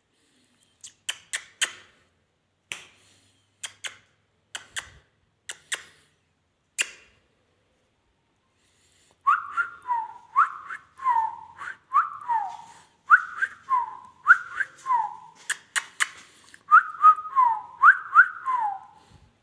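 Indian ringneck parrot whistling a repeated two-note phrase, a rising note then a falling one, over and over. Before it, a quiet pause, and before that a series of sharp clicks.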